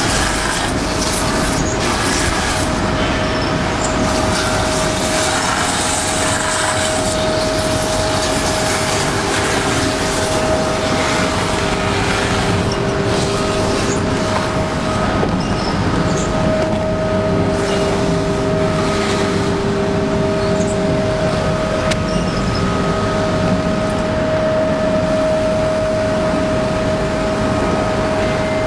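Veneer edge-grinding machine running: a steady mechanical noise with a constant tone, and a second, lower tone that comes and goes.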